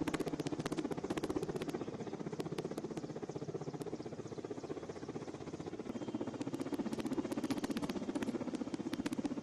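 Helicopter rotor beating in a fast, even chop, fading a little in the middle and growing louder again toward the end.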